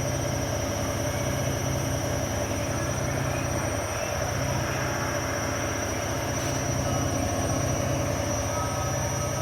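Washing machine running with a steady hum and a constant high whine, unchanging throughout.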